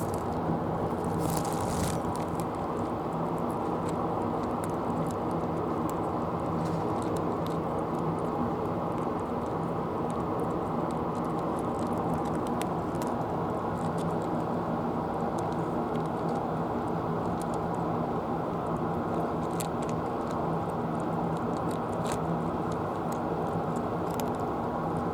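A steady low motor hum with scattered faint clicks.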